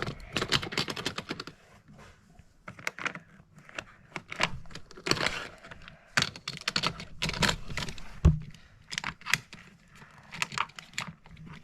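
Irregular clicking and clattering of Hot Wheels die-cast cars and plastic track pieces being handled, with a dull thump about eight seconds in.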